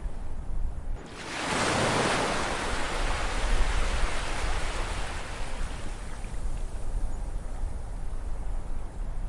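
Ocean waves: one wave surges in about a second in and slowly washes away over a steady low rumble.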